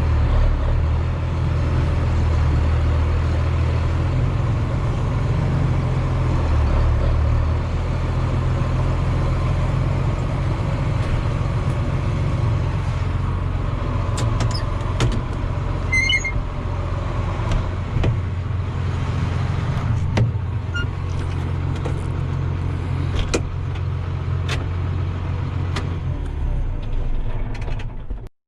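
John Deere 7810 tractor's 6081 six-cylinder diesel running steadily at low speed. A few sharp clicks and knocks come in the second half.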